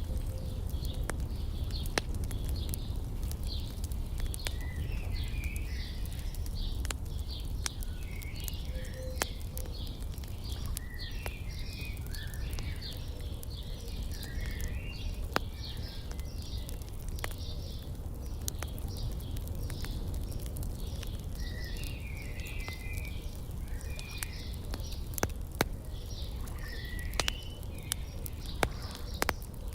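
Small birds chirping and twittering continuously, with scattered sharp crackles and pops from a wood fire, a few louder pops near the end, over a steady low rumble.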